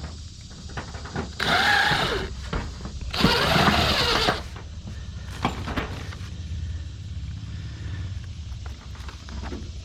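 Power drill driving screws into metal roofing panels, in two runs of about a second each, its motor pitch bending up and down as each screw goes in. A steady low drone runs underneath.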